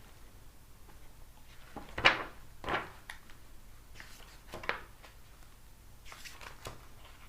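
A picture book being handled and its pages turned: three short papery swishes, the first the loudest, then fainter rustles near the end.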